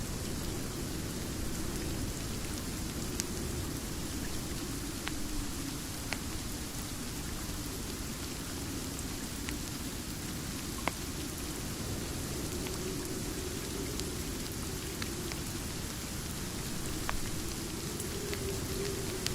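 Steady rain, with a slowly wavering low rush, and a fireplace crackling, giving single sharp pops every few seconds.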